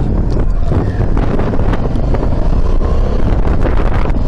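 Wind buffeting the microphone of a moving motorcycle, with the Honda Varadero XL1000's V-twin engine running underneath.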